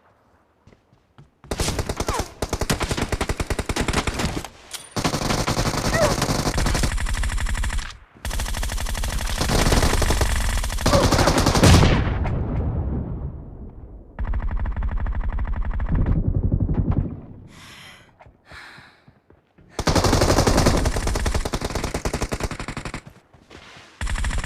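Video game automatic gunfire: about five long bursts of rapid shots, each several seconds long, with short gaps between them.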